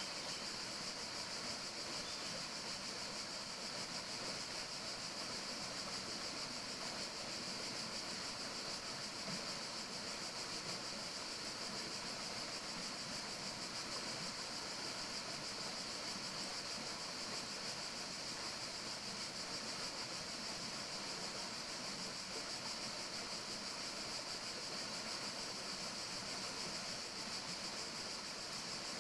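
Steady forest ambience: an unbroken, even rushing hiss, strongest in a high band, with no distinct calls or events.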